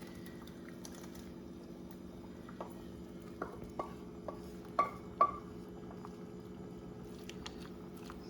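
A utensil clinking against a metal soup pot several times, the two loudest clinks about five seconds in, as shredded chicken is put back into the soup. A steady low hum runs underneath.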